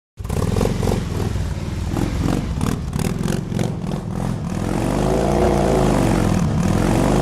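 Motorcycle engine running, with quick uneven throttle blips for the first four seconds or so, then a steadier run whose pitch swells up and down.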